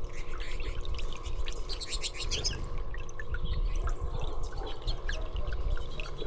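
Small songbirds chirping: scattered short, high calls, with a quick run of rapid notes about two seconds in, over a steady low rumble.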